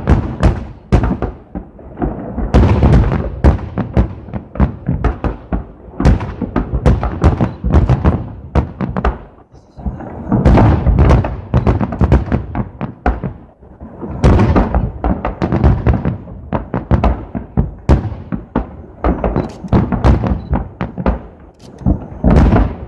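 Festive fireworks salute: aerial shells bursting overhead in a rapid, uneven run of loud booms, several a second, with a few short lulls.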